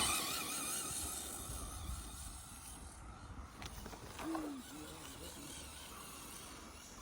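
RC car motor whining as the car sets off from the start, its pitch wavering with the throttle, then fading as it drives away.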